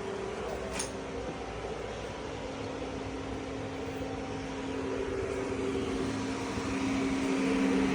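Steady mechanical hum with a few constant tones, growing somewhat louder near the end, with one short high tick about a second in.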